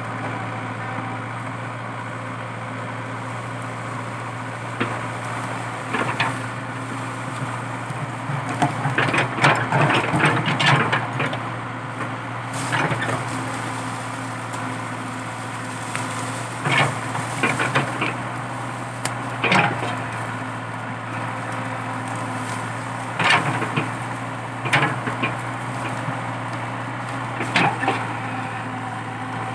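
Komatsu PC80 excavator's diesel engine running steadily, with repeated sharp cracks and knocks at irregular intervals, busiest about ten seconds in, as eucalyptus stump wood and roots break under the digging.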